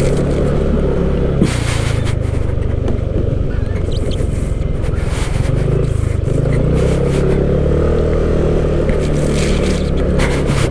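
Motorcycle engine running while riding, its pitch rising and falling gently with the throttle. Gusts of wind noise sweep over it a few times.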